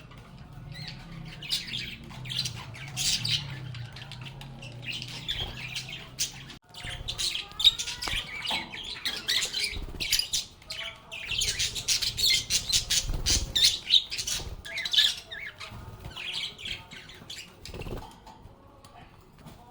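Several lovebirds chirping and squawking in quick, shrill, overlapping calls, with a low steady hum underneath that stops about six seconds in.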